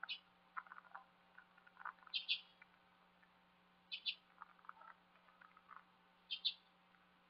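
Faint bird calls: a short, high double chirp repeating about every two seconds, with softer, lower chirps in between.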